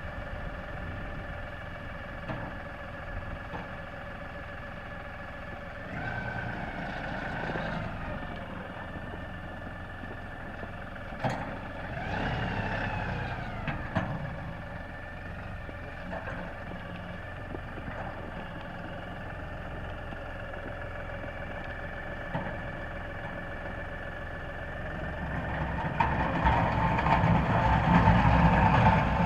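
LS tractor engine running steadily while plowing snow with a front blade, its pitch swelling briefly about 6 and 12 seconds in, and growing louder over the last few seconds.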